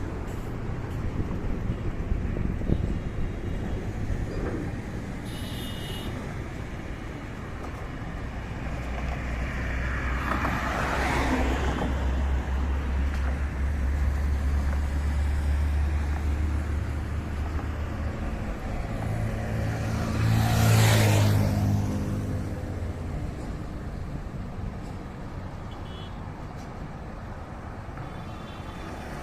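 Highway traffic: vehicles passing one after another with a steady tyre-and-engine noise. Two loud pass-bys swell and fade, about a third of the way in and again about two-thirds in; the second carries the deep hum of a heavy diesel engine, such as a bus or truck.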